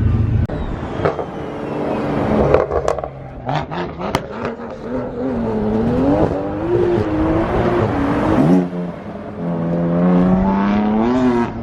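Car engines revving, their pitch rising and falling repeatedly, with scattered sharp cracks through the revs.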